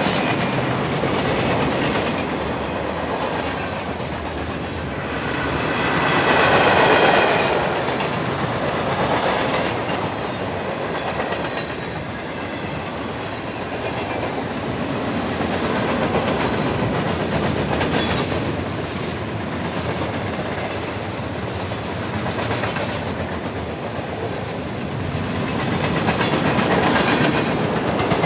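Freight train's cars rolling past, a steady clatter of wheels over the rails. It swells to its loudest about seven seconds in, with a high metallic ringing of the wheels.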